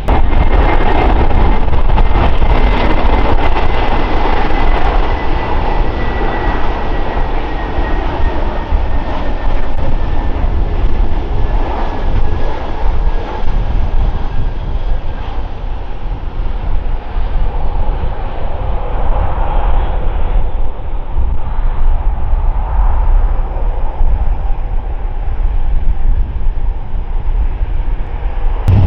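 Jet airliner's engines running loud, with a high whine that slowly falls in pitch. The noise eases off over the second half.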